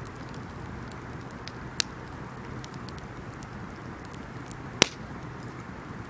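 Wood bonfire burning with a steady hiss and scattered small crackles, with two sharp pops about two and five seconds in, the second the louder.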